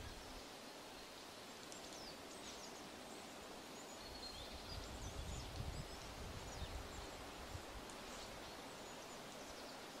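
Small forest birds calling in short, high chirps scattered through, over a steady hiss of background noise. A few low thumps come about halfway through.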